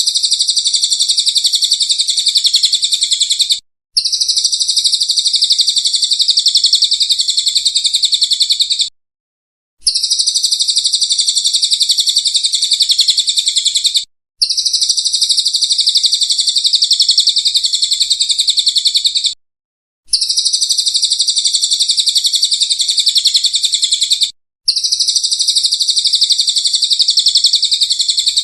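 Recorded songbird trill for bird-song training: a rapid, high, buzzy trill played in blocks of about four to five seconds that start and stop abruptly, separated by short silences, as a looped track.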